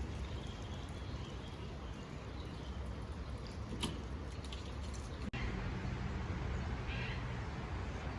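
A bird gives a few short, harsh calls over a steady low hum, with one sharp tap about four seconds in.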